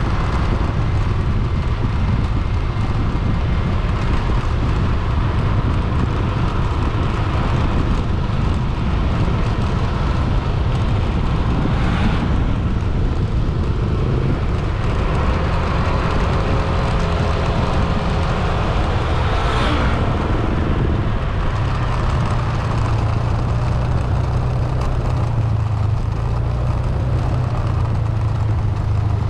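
Steady engine and road rumble of a vehicle being driven, with two brief swishes partway through.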